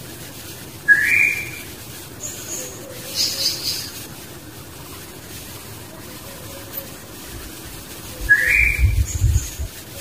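Two short rising whistled bird calls, about seven seconds apart, with a low rumble around the second one.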